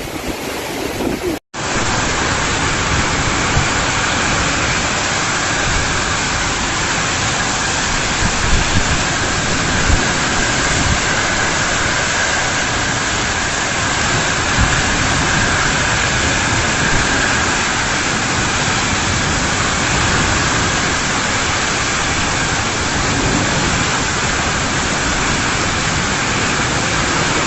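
Heavy rain pouring down in a steady, dense rush of noise, starting abruptly at a cut about a second and a half in.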